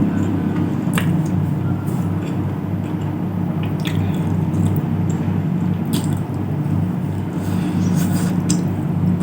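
Close-miked eating: chewing food, with a few sharp mouth or utensil clicks about one, four, six and eight seconds in, over a steady, evenly pulsing low hum.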